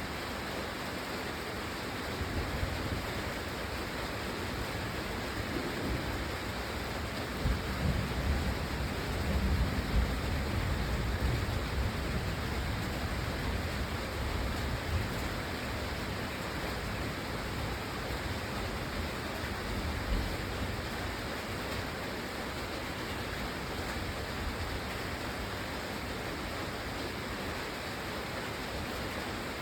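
Steady rain falling, with a low rumble of thunder that swells about seven seconds in and fades by about twelve seconds.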